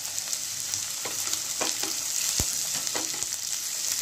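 Onions, garlic and green chillies sizzling in hot oil in a kadai, with a steady hiss. From about a second in, a spatula stirs them, making several short scrapes and knocks against the pan.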